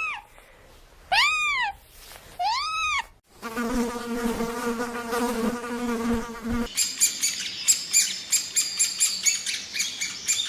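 Three short high calls, each rising and falling in pitch, then a flying insect buzzing steadily for about three seconds, then small birds chirping rapidly from about two-thirds of the way in.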